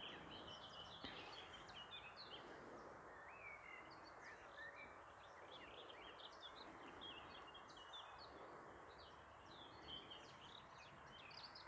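Faint birdsong: several small birds chirping on and off, over quiet outdoor background noise.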